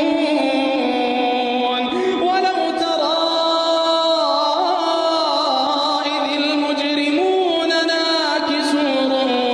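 Middle Eastern-style melodic chant over music. One melodic line holds long notes and bends between them with ornamented turns, without a break.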